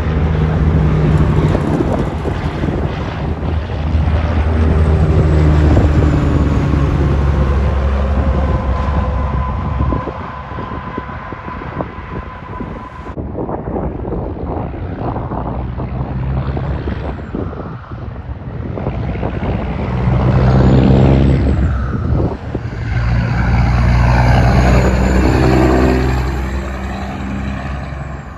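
Heavy semi trucks passing one after another, their diesel engines pulling with tyre and road noise. The sound swells, falls back, then swells again in the last third.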